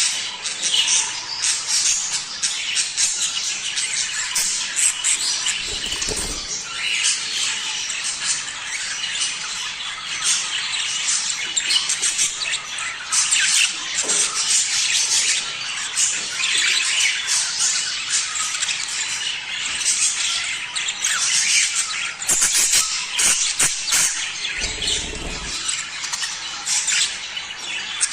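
A flock of budgerigars chattering and warbling continuously, with squawks and chirps in a dense high-pitched mix: the kind of budgie chatter offered as mating calls to stimulate breeding.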